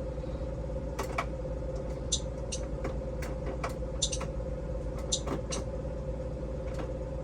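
Blue Bird gasoline school bus engine idling with a steady hum, while irregular clicks come from the right turn signal being worked; the signal is not staying on.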